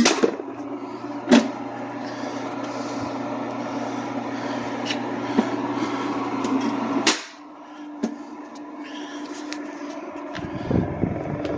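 Reliance Electric Duty Master 7.5 hp single-phase, totally enclosed fan-cooled motor switched on with a loud clunk of the disconnect and running with a steady electric hum and fan whir, with another click a little over a second in. About seven seconds in a sharp clunk cuts the hum, and the heavy rotor coasts on with a fainter whir.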